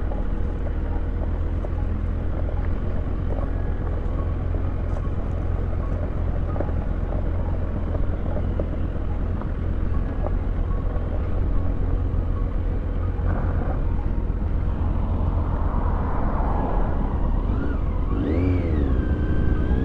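Kawasaki Z900's inline-four engine running at low revs over a steady low rumble while the bike rolls slowly down loose gravel. Near the end the engine note dips and then rises as the throttle opens.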